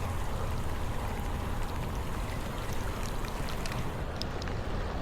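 Steady rain falling, with a low rumble underneath and a few light sharp ticks near the end.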